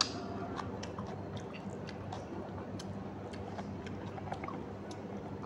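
A person chewing a mouthful of rice and curry eaten by hand, with many small wet mouth clicks and smacks. A sharp click right at the start, over a steady low hum.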